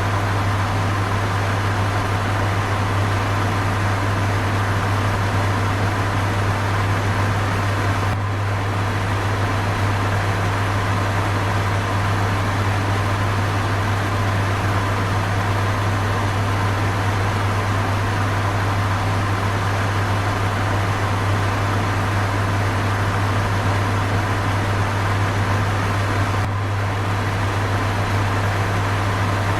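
Electric fan running steadily: an even rushing of air over a strong low hum, with a brief slight dip about eight seconds in and again near the end.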